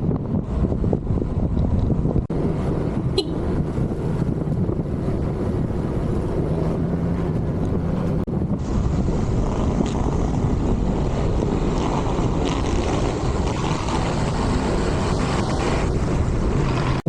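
Wind buffeting the camera microphone on a moving Honda ADV160 scooter, with the scooter's single-cylinder engine running underneath.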